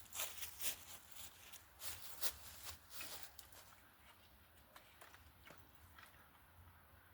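Footsteps on dry ground, a quick run of steps through the first half, then only a few faint scattered ticks.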